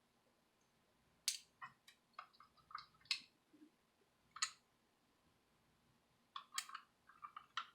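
Irregular light clicks and ticks of small screws and a screwdriver being handled against the plastic casing of a mini wireless speaker during teardown, coming thicker near the end.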